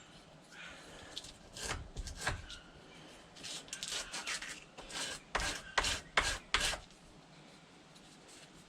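Short scraping strokes on the wood of a spotted gum maul handle being worked by hand, about a dozen spread over several seconds, the loudest four coming quickly one after another near the end.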